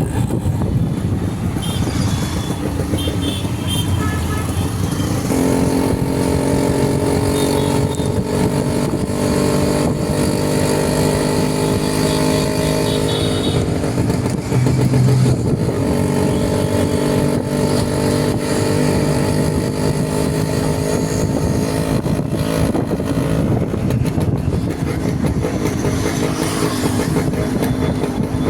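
Motorcycle engine running on the move, with road and wind noise. A steady engine note comes in about five seconds in and holds with small shifts in pitch.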